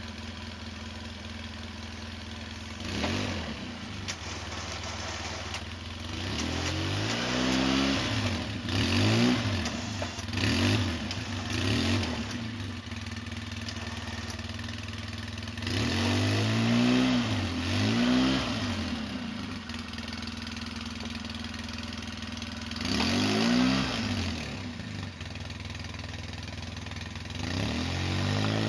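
Polaris Sportsman 800 ATV's twin-cylinder engine idling steadily, broken by repeated short bursts of throttle that rise and fall in pitch: several around the middle of the stretch and more near the end.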